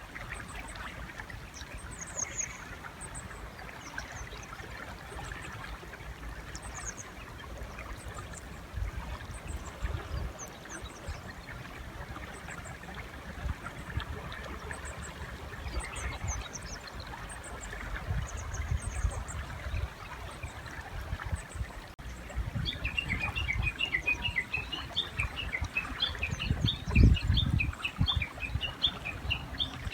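River flowing steadily, with small birds chirping high and thin. About two-thirds of the way in, a Japanese bush warbler starts a long, fast run of repeated chirps that carries on to the end. Low thumps come here and there, the loudest near the end.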